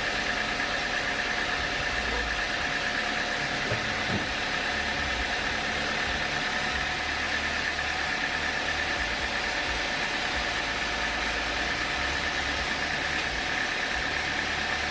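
Sawmill machinery running steadily: a continuous engine-like hum with a steady high-pitched tone over it, unchanging in level throughout.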